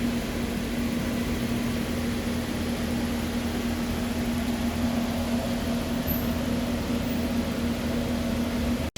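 A shop machine's motor running steadily: a constant hum over an even whirring noise, unchanging throughout.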